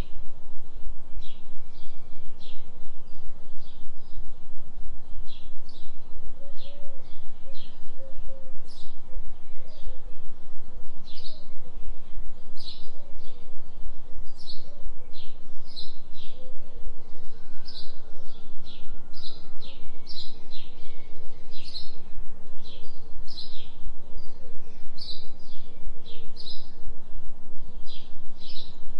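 Birds chirping in short, repeated high calls about once or twice a second, over a constant deep low tone: the carrier of a 3 Hz delta binaural beat.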